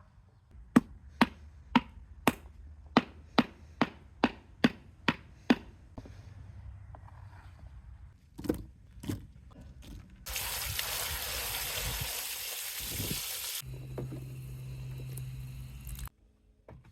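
A run of sharp knocks, about two a second for some five seconds, then two more. Later comes a rushing noise for about three seconds, followed by a steady low hum with hiss that cuts off suddenly.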